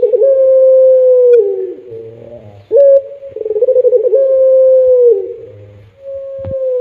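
Puter pelung dove cooing: a short note followed by long drawn-out coos held on one pitch that drop away at the end, repeated in phrases. A brief sharp click near the end.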